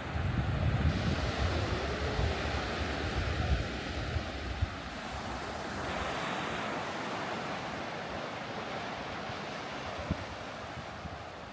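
Sea surf breaking and washing up a beach, with wind gusting on the microphone for the first few seconds; the wash of the surf swells about halfway through.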